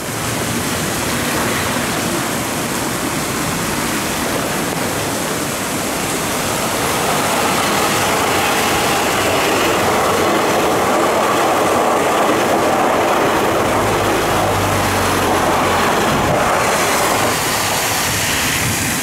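Odakyu 5000 series electric commuter train passing close at speed: a steady rush of wheel and running noise that grows louder toward the middle and eases a little near the end.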